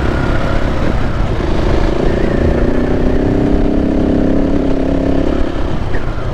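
KTM 690 Enduro's single-cylinder four-stroke engine running under way on a dirt road, with a steady rumble beneath it. The engine note holds fairly even and eases off about five seconds in.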